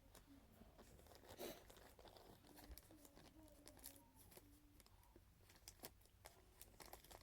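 Near silence with faint rustling, crinkling and small clicks of things being handled, a slightly louder rustle about a second and a half in.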